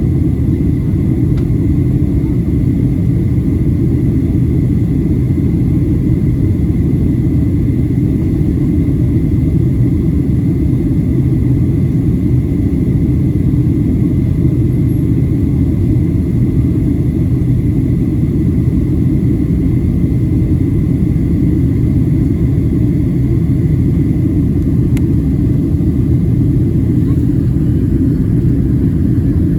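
Steady low rumble of a Boeing 737-700's cabin in descent: engine and airflow noise, with a faint steady high tone over it.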